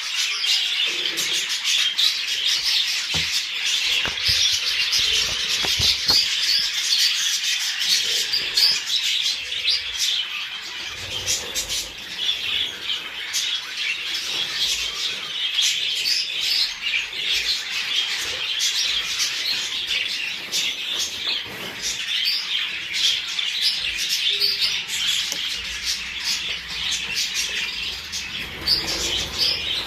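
Many budgerigars chattering and chirping without a break, a dense flock warble of the kind played to encourage budgies to breed.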